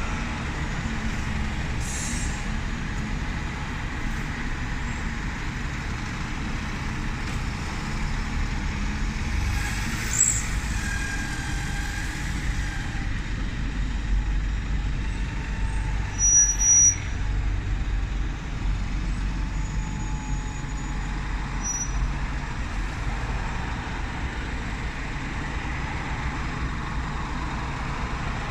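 Stagecoach bus's diesel engine idling steadily on the stand, left running with nobody at the wheel. Short hisses of air are heard about two seconds in and again about ten seconds in.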